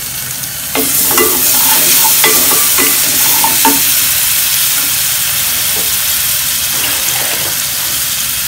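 Onions and freshly added ground spices with ginger, garlic and cumin pastes sizzling in hot oil in an aluminium saucepan, stirred with a wooden spatula. The sizzle grows louder about a second in as the stirring begins, with scraping strokes of the spatula over the first few seconds, then settles into a steady frying hiss.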